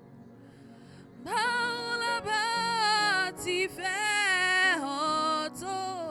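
Worship music: a solo voice comes in about a second in, singing long held notes with strong vibrato over soft sustained accompaniment.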